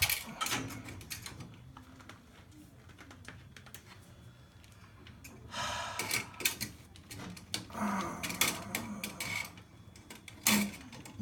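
Scattered light clicks and taps from hands working small parts and tools, with a short rustle about six seconds in.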